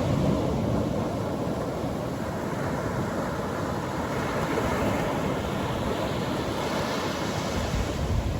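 Atlantic Ocean surf breaking and washing up a beach in a steady rumbling wash, with a wave surging in near the end. Wind buffets the microphone.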